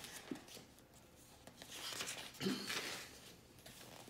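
Faint rustling of a picture book's paper pages being handled and turned, in a few soft swishes.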